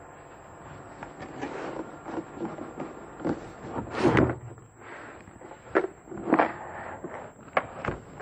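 A black plastic tool case being slid out of its cardboard box and the paper sleeve pulled off it: scraping and rustling of cardboard and paper, with a few sharp knocks of the plastic case being handled. The loudest scrape comes about four seconds in.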